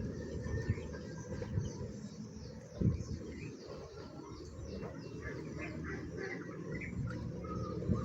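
Farmyard poultry calling: scattered short chirps and calls, busier in the second half. A steady low rumble runs underneath, with a single thump about three seconds in.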